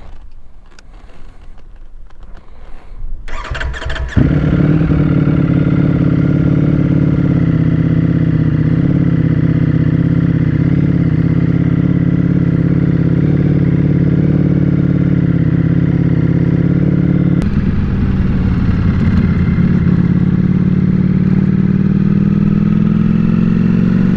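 Ducati Panigale V4 S's V4 engine starting abruptly about four seconds in, after a few small knocks and rustles. It then idles steadily and loudly. A click comes about two-thirds of the way through, and near the end the engine note rises gently as the bike pulls away.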